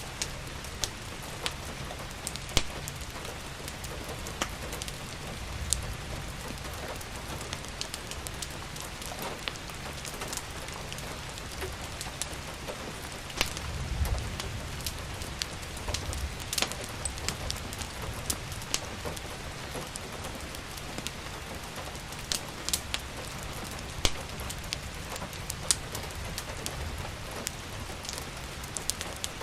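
Steady rain with frequent sharp crackles and pops from a wood fire in a fireplace. A low rumble swells briefly about halfway through.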